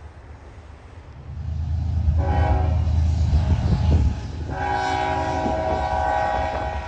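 Freight locomotive air horn sounding two long blasts, each a chord of several notes, over the low rumble of the approaching diesel locomotive, which swells about a second in.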